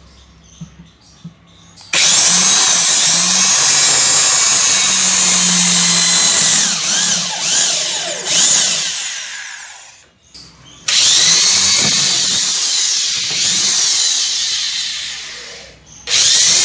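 A power tool runs with a loud whirring noise in switched-on stretches: about eight seconds, a short stop, about five seconds more, then it starts again near the end.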